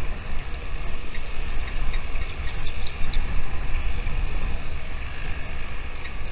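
Steady low wind rumble on the microphone, with small birds giving short high chirps and a quick run of chirps about two to three seconds in.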